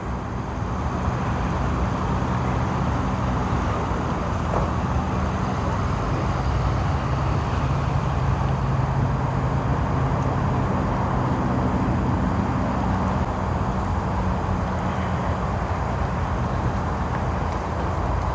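Steady rumble of vehicle traffic with a low engine hum.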